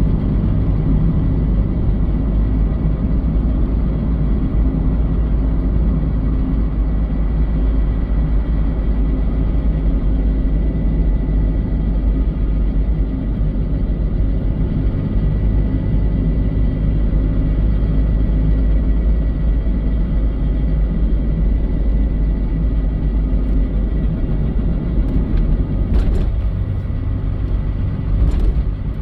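Mazda Eunos Roadster (NA8C) with its 1.8-litre four-cylinder running: a steady rumble with a thin, steady high tone over it, and two short clicks near the end. The owner hears an abnormal noise in the car, something dragging.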